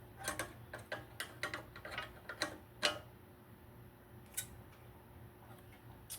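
Irregular light clicks and clinks of hand tools on the metal of a small generator being taken apart, bunched in the first three seconds, then two single clicks later, over a faint steady low hum.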